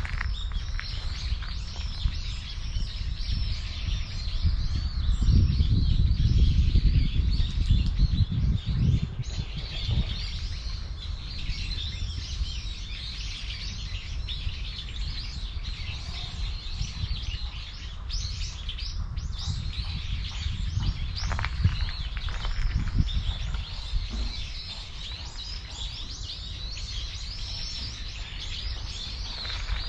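Small songbirds chirping and twittering on and off throughout, over a low rumble that is heaviest a few seconds in.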